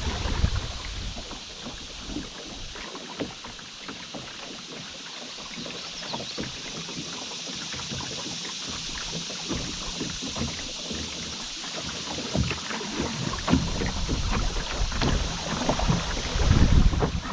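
Canoe drifting on a river, with a steady hiss of moving water and many small splashes and drips against the hull and paddle. There is a louder low rush near the end.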